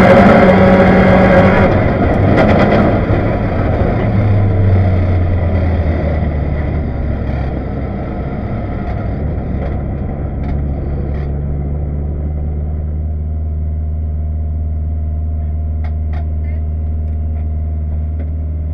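Rally car's engine running hard at first, then easing off over the first few seconds and settling into a steady low idle.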